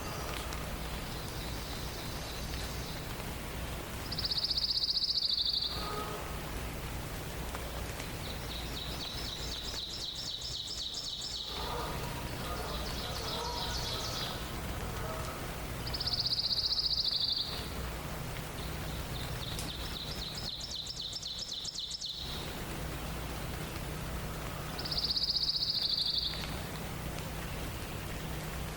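Songbirds singing: one bird repeats a loud, high phrase of about a second and a half three times, roughly every ten seconds, with quieter high trills from other birds in between.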